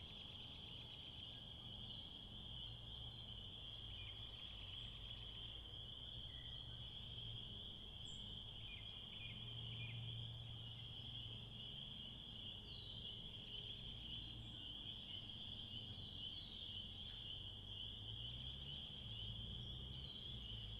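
A steady, unbroken high-pitched insect chorus, with a few short bird chirps scattered through it over a low rumble.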